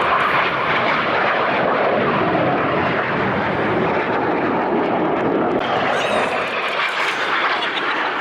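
Red Arrows' BAE Hawk T1 jets flying their display overhead, a steady loud engine noise.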